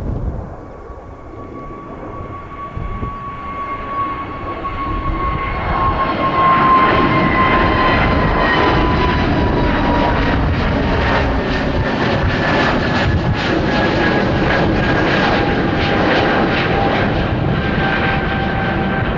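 Airbus A320neo jet engines at take-off power as the airliner climbs out. The rumble grows louder over the first several seconds and then holds steady, while a whine slowly falls in pitch.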